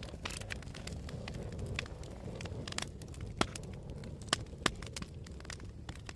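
Wood fire burning in a fireplace: a steady low rumble of flames with frequent sharp crackles and pops, three louder pops a little past the middle.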